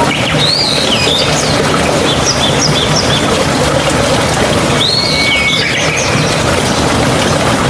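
Steady rush of flowing mountain water with birds calling over it: a swooping call about half a second in, a quick series of short chirps around two to three seconds, and another swooping call about five seconds in.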